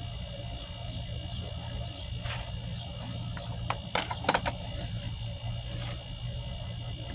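A few sharp clicks and knocks in quick succession about four seconds in, over a steady low hum.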